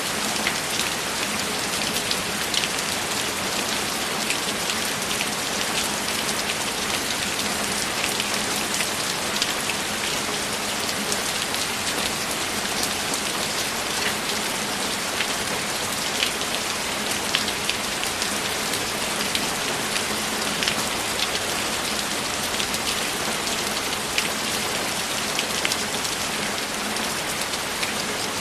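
Steady, heavy rainfall, a dense even hiss with many individual drops ticking through it.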